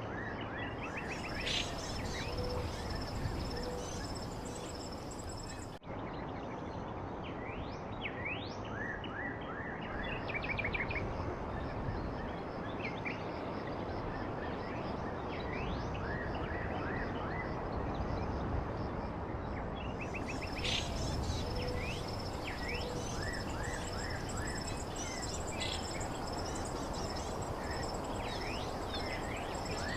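Small birds chirping: many short, quick chirps, some sliding in pitch, over a steady background hiss, with a brief break in the sound about six seconds in.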